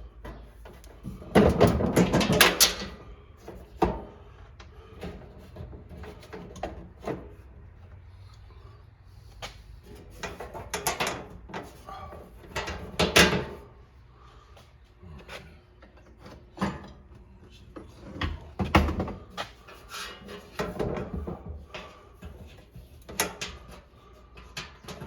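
Irregular clanks, clicks and knocks of hand tools and loose panel parts being handled while a lawn tractor's front end is taken apart, with louder bursts of rattling about two seconds in, around the middle and near the end.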